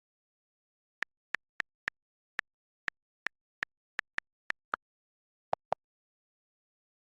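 A series of about a dozen very short, sharp pitched clicks in an uneven rhythm, with dead silence between them; two lower-pitched clicks come after the middle.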